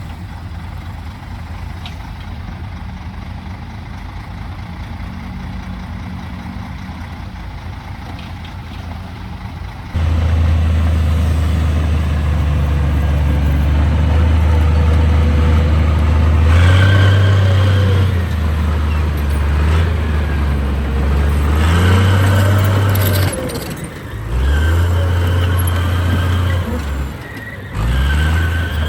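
Heavy diesel construction machinery running: a steady engine for the first ten seconds, then suddenly much louder, with the engine pitch rising and falling as it works under load. The sound drops out briefly twice near the end.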